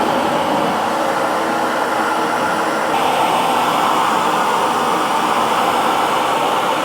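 Hair dryer running continuously, a steady airy whoosh strongest in the midrange, its tone shifting slightly about three seconds in.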